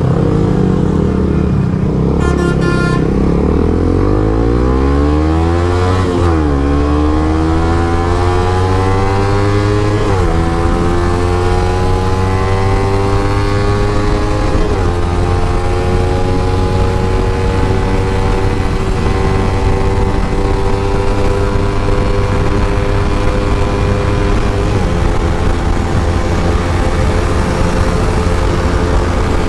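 Suzuki GSX-R150's single-cylinder engine under way: it slows down for the first few seconds, then accelerates through the gears with upshifts about six, ten and fifteen seconds in, pitch climbing after each shift. A brief horn sounds about two seconds in.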